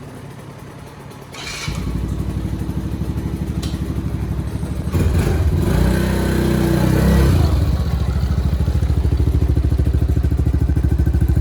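A small dirt bike engine starts about two seconds in and settles into a fast, pulsing idle as it warms up from cold. It revs up briefly between about five and eight seconds in, then drops back.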